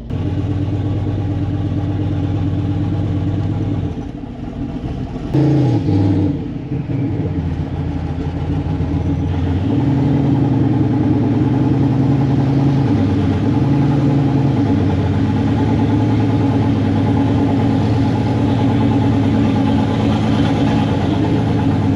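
Chevrolet C10 pickup's engine running steadily, with a short rise in revs about five seconds in and the pitch stepping up and back down a couple of times between about ten and fifteen seconds.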